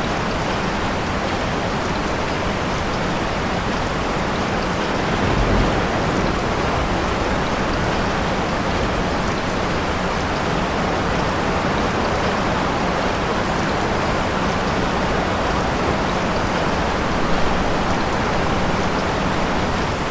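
Steady heavy rain, a dense even hiss of drops on surfaces, with a brief low rumble about five seconds in.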